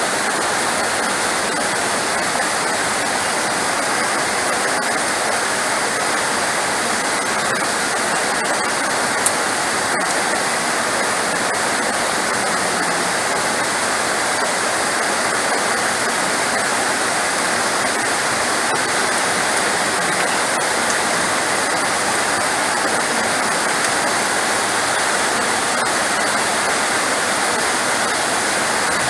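Heavy rain falling steadily, a dense, even hiss with no let-up. A single short tick about nine seconds in.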